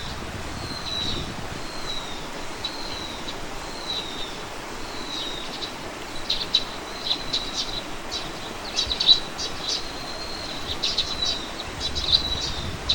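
Small birds calling: a short high note repeated about every two-thirds of a second, then from about halfway through, quick clusters of sharp high chirps.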